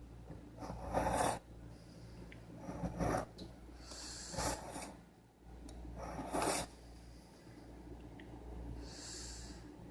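A serrated steak knife's bevel drawn flat along a sharpener in about five separate scraping strokes, a couple of seconds apart, sharpening the serrated edge.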